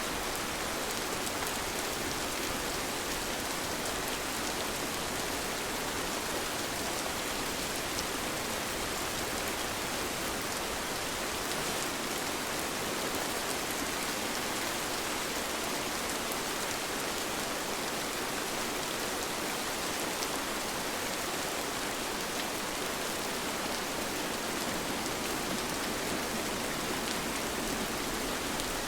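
Steady rain falling, an even hiss of many drops with scattered individual drop ticks on surfaces.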